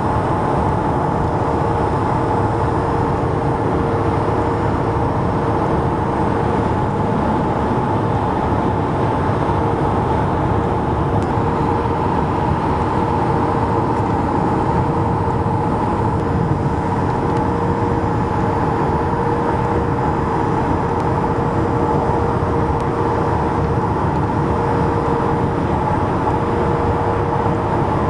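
Steady highway traffic noise from vehicles and transport trucks passing, with a constant hum running through it.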